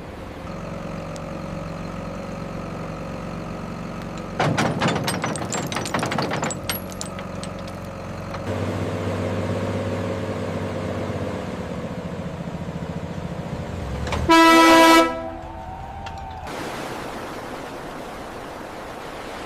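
Heavy machinery running with a steady low drone, broken a few seconds in by a loud crackling clatter lasting about two seconds. Near the end comes a single short, loud horn blast, followed by a wash of surf-like noise.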